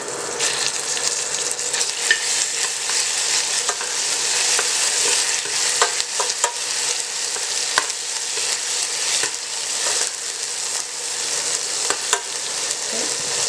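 Minced garlic and ginger sizzling in hot sesame oil in a small stainless-steel saucepan. A metal spoon stirs them, clinking against the pan now and then.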